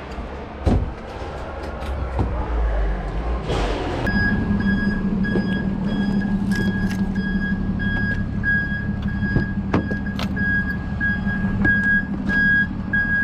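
A single knock near the start. About four seconds in, a vehicle engine starts running with a steady low hum, and an electronic vehicle warning beeper begins pulsing about twice a second.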